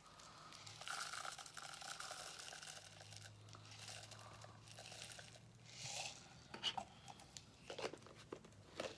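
Faint rustling and crinkling from craft materials being handled, with a few light taps and clicks in the last few seconds.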